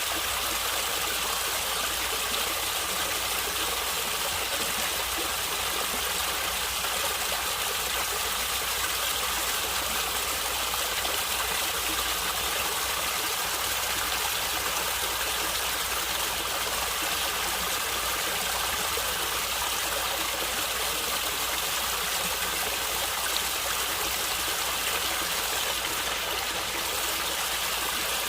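Natural water flowing and gurgling in a steady, unbroken rush.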